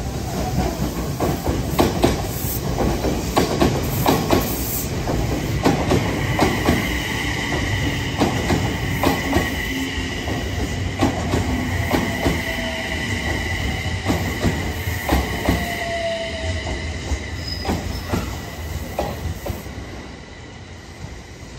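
Passenger train moving through the station, its wheels knocking irregularly over rail joints, with a steady high squeal from about six seconds in. The sound dies away near the end.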